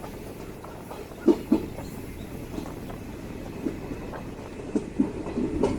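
DEMU train running on the rails, heard from aboard: a steady low rumble with sharp wheel clicks over rail joints, several coming in quick pairs.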